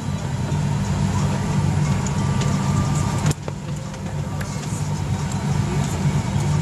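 Steady low drone of a Boeing 737-800's cabin noise, with a sharp click about three seconds in.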